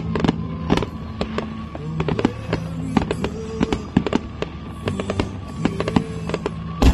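Fireworks display: a rapid string of shell bursts, bangs and crackles over steady background music. Near the end comes the loudest blast, as fireworks go off low at the launch site by the water.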